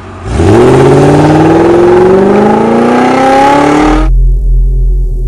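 Car engine accelerating hard in one long pull, its pitch climbing steadily for nearly four seconds, then cutting off abruptly and leaving a low steady rumble.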